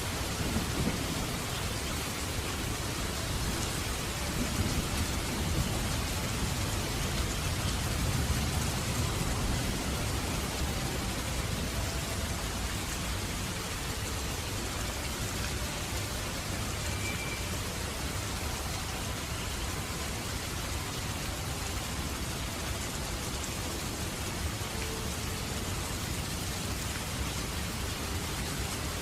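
Heavy rain falling steadily, a dense even hiss of countless raindrops, with a deeper low rumble underneath that eases after about ten seconds.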